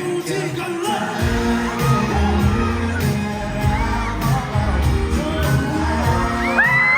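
Live indie pop band playing with singing, picked up from the crowd; bass and drums come in about a second in, and a loud high held note rises sharply near the end.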